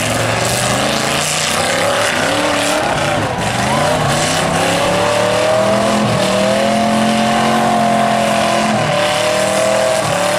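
Demolition-derby pickup truck engines revving hard under load as one truck shoves another. The pitch climbs about halfway through, holds high for a few seconds, then drops near the end.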